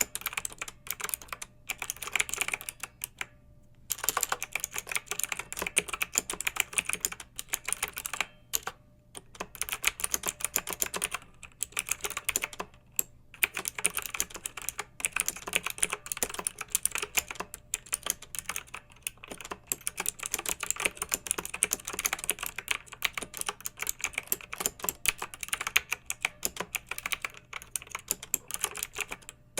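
Fast typing on a clicky mechanical keyboard: dense runs of sharp keystroke clicks, broken by short pauses of about half a second to a second.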